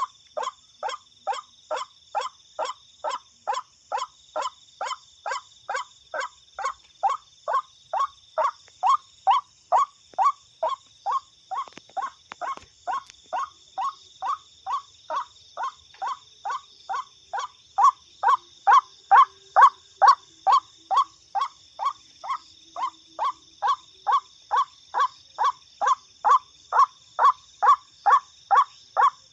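White-breasted waterhen (ruak-ruak) calls repeated monotonously, about two short calls a second, played from an mp3 recording as a lure, getting louder about two-thirds of the way through. A steady high-pitched hum runs behind.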